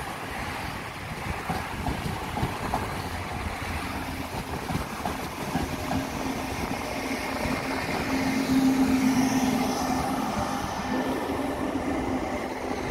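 Trenitalia Frecciarossa ETR 500 high-speed electric train running past, its carriages' wheels rolling on the rails with a steady rumble. A humming tone joins in and swells about two-thirds of the way through as the rear power car nears.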